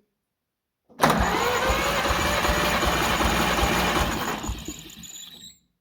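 Oliver 70 tractor's six-cylinder engine being cranked over by its starter with the spark plugs removed, for a compression test on cylinder number 2. The cranking starts suddenly about a second in with a steady, rhythmic beat, then the starter is released and the engine spins down and stops near the end.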